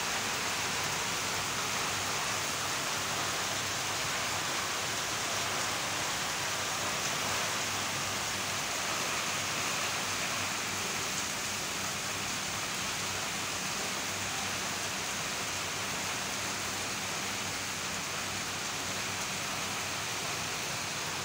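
Heavy rain pouring down onto a waterlogged road, a steady, even hiss.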